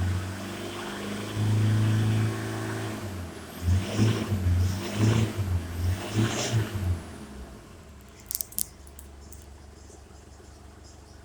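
Ford Ranger 3.0-litre turbo-diesel engine running and being revved, with one longer rise and then five short blips, each falling back. After about seven seconds the engine note drops away to a low hum, with a few sharp clicks near the end.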